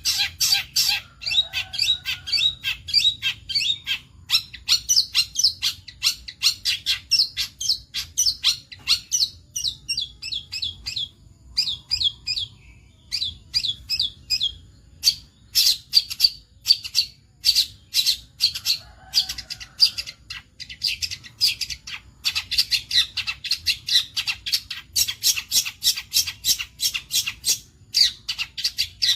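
Long-tailed shrike (cendet) singing: fast runs of sharp, chattering notes, several a second, broken by a few short pauses.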